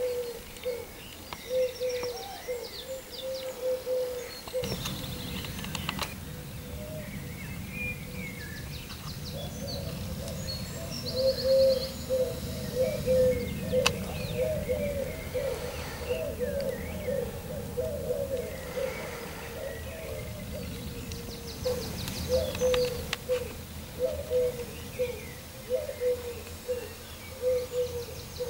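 Morning garden bird chorus: pigeons cooing over and over in a low repeated call, with smaller songbirds chirping and trilling higher up. A low steady rumble of background noise comes in about four to five seconds in.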